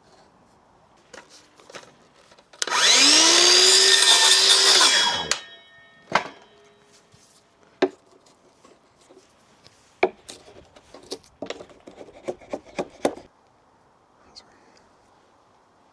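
A power tool runs for about three seconds: its motor pitch rises as it spins up, then dies away as it stops. This is followed by a scatter of sharp knocks and clicks of wood being handled.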